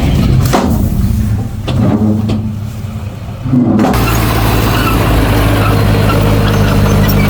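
Diesel engine of heavy earthmoving machinery running. About four seconds in the sound changes abruptly to a louder, steadier drone.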